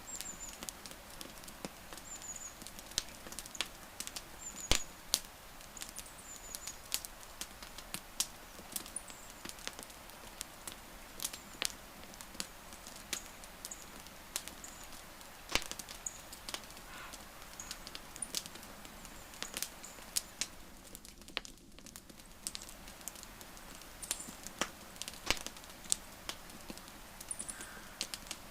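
Wood campfire crackling: irregular sharp pops and snaps over a soft steady hiss. Faint short high chirps come now and then, mostly in the first few seconds.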